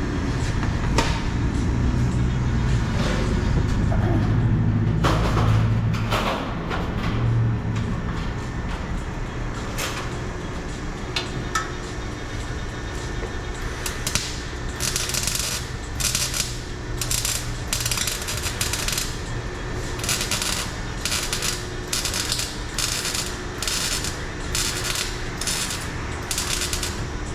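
Arc welder crackling in short bursts, one after another, as a thin steel exhaust pipe is stitch-welded. The bursts start about halfway through, after a low rumble in the first half.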